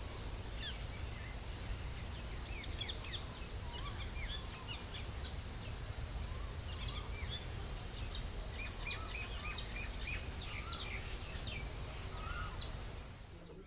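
Several small birds chirping and calling over and over, quick short notes and falling calls, over a steady low rumble of outdoor background noise that fades near the end.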